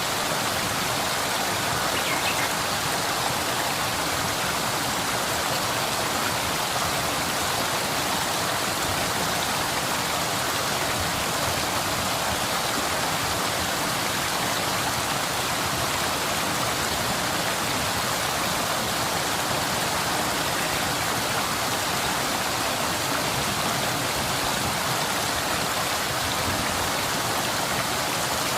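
Waterfall splashing into a stream, a steady unbroken rush of water.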